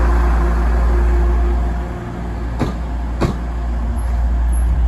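Trains moving out of a station: a loud, steady low rumble with a droning engine note that dips about two seconds in. Two sharp clacks follow, like wheels over rail joints, and the rumble then builds again as a Class 185 diesel multiple unit pulls away.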